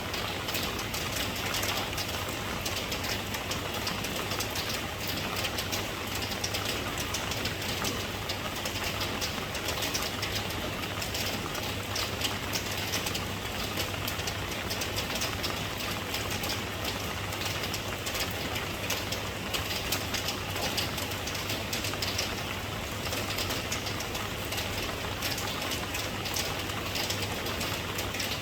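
Steady rain, a dense patter of many small drops, with a steady low rumble underneath.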